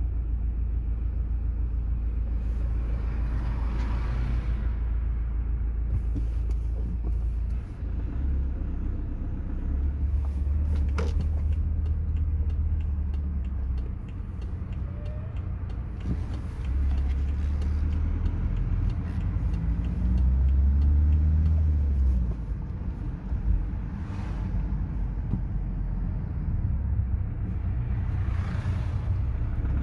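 BMW 5 Series running at low engine speed, lugging, with a deep droning rumble that steps up and down in strength several times and briefly rises in pitch about two-thirds of the way through. This low-rev drone is the noise the owner is pointing out.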